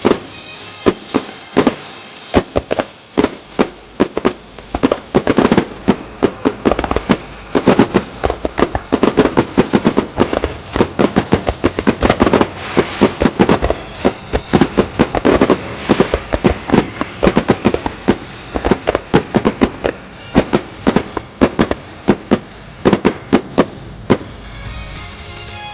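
Aerial fireworks in a rapid-fire barrage: loud bangs come in quick succession, several a second, and grow densest through the middle before easing near the end.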